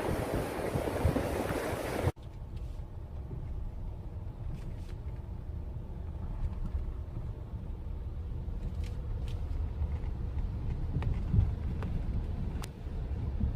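Rushing water for about two seconds, then an abrupt cut to a steady low rumble with a few faint clicks.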